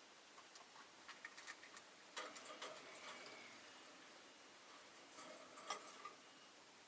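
Faint scattered clicks and ticks from rosy-faced lovebirds moving about their cage, with a soft, short pitched sound about two seconds in and a faint tone and click a little after five seconds.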